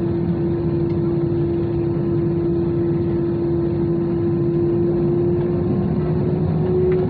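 Airbus A320 cabin noise with the CFM56 engines at idle: a steady low hum under a steady whine that rises slightly in pitch near the end.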